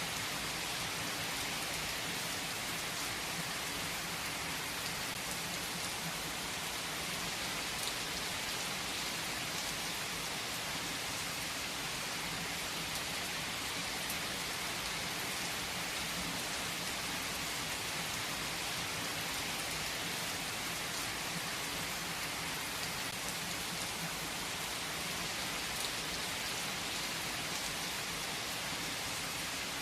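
Rain falling steadily, an even hiss with a few faint drop ticks.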